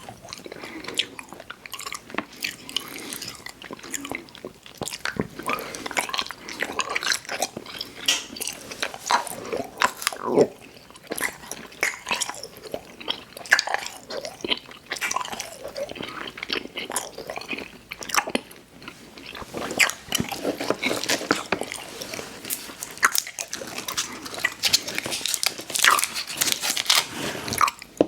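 Close-miked chewing of sour gummy worms: wet, sticky chewing and biting with small crunches from the sugar coating, uneven and continuous, getting busier and louder over the last third.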